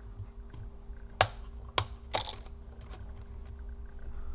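Sharp clicks and snaps of plastic as a plastic cover on a Dell Latitude E4310 laptop is pried off, with three louder clicks between about one and two and a half seconds in and fainter ticks around them.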